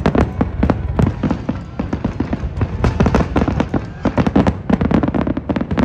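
Aerial fireworks display: shells bursting overhead in a dense, rapid run of bangs and crackles, many a second, over a low rumble.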